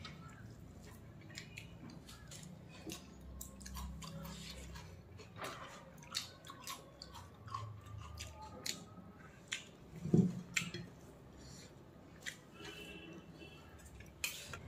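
Close-up chewing and wet mouth clicks of a person eating rice and chicken liver curry by hand, with a louder single knock about ten seconds in.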